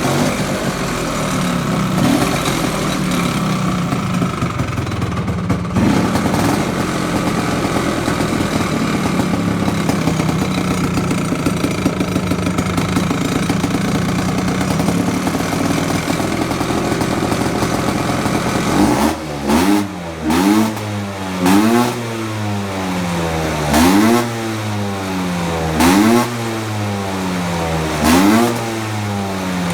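Tractor engine running at a steady speed, then from about two-thirds of the way through revved up and let back down over and over, about every two seconds.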